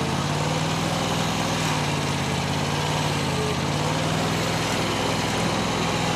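Mini skid steer's small engine running steadily, with an even pitch, while the machine holds a loaded pallet raised to full height.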